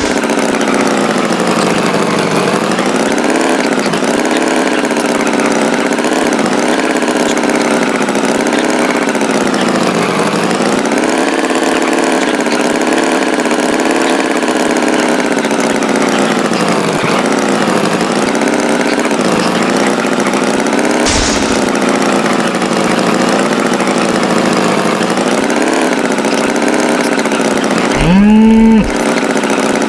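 Tractor engine running steadily at idle, its pitch wavering slightly. Near the end a short, louder tone sounds briefly over it.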